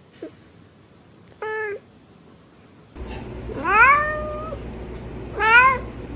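Domestic cat meowing three times: a short meow about one and a half seconds in, then a longer meow that rises in pitch and holds, and a shorter rising meow near the end. A low steady hiss comes in about halfway through.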